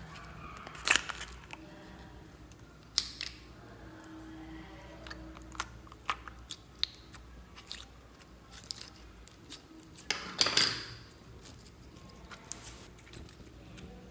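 Slime being squished and mixed by hand, giving a run of sticky clicks and small pops, with three louder pops about a second in, three seconds in and near ten seconds.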